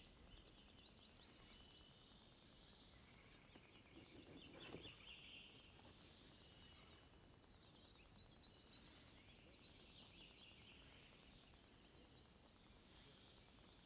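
Near silence with faint birds singing and chirping in the distance, and one soft low knock about four and a half seconds in.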